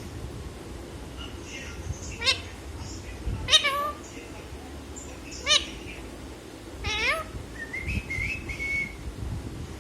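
Pet parrot mimicking a cat, giving four short meow calls a second or two apart, followed by a brief whistled note near the end.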